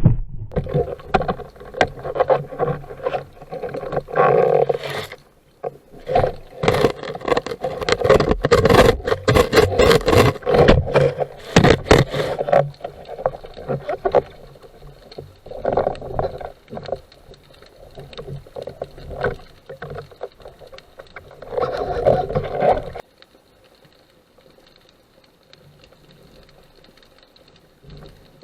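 Water splashing and knocking on an underwater action camera as a spearfisher swims, in irregular bursts of clicks and sloshing that stop near the end, leaving only a faint hiss.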